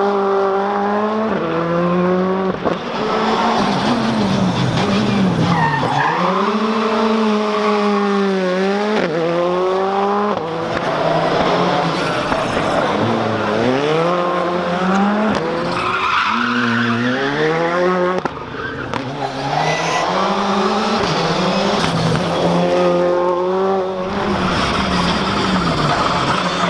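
Skoda Fabia R5 rally car's turbocharged four-cylinder engine driven at full attack, its pitch climbing hard through each gear and falling sharply on shifts and braking, over and over.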